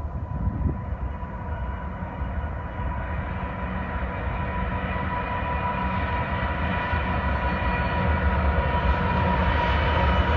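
Diesel train approaching: a low rumble that grows steadily louder, with a steady high whine running over it.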